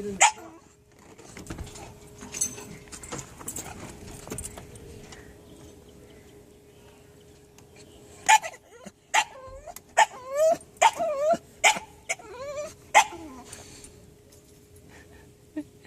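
A dog whining and yipping in a run of about a dozen short, high cries, bunched about halfway through: a distressed, protesting cry.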